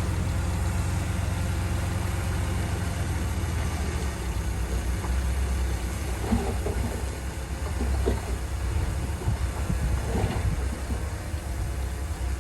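Heavy diesel earthmoving machinery running steadily with a low rumble, with a few short clanks in the second half.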